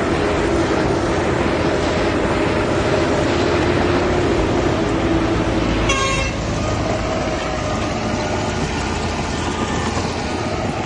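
Heavy diesel earthmoving machinery running steadily, with a short high-pitched toot about six seconds in.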